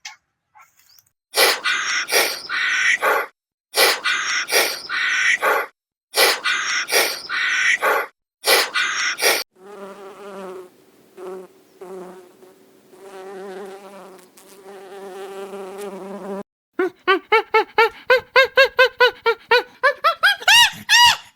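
Three separate animal recordings in turn: first a series of loud, noisy bursts, then a wasp buzzing steadily in flight, then a fast run of short squeaky calls rising in pitch near the end.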